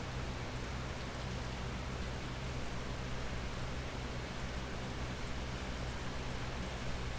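Steady rain falling, an even hiss with no pauses, over a low steady hum.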